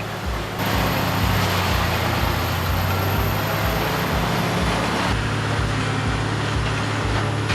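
Morbark 1100 tub grinder running on its Cat diesel engine: a steady low engine drone under a loud, dense noise of wood being ground. The sound changes abruptly about half a second in and again about five seconds in.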